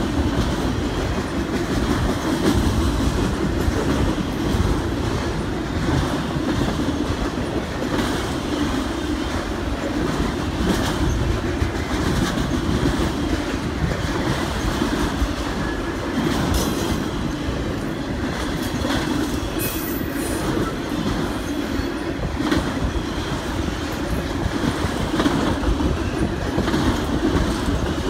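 A freight train of autorack cars rolling past close by: a steady rumble of steel wheels on the rails, with scattered sharp clicks and clanks as the cars go by.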